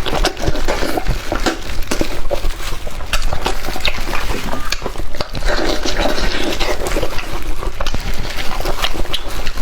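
Close-miked eating: wet chewing and lip-smacking on spicy meat, with many quick sticky clicks and slurps.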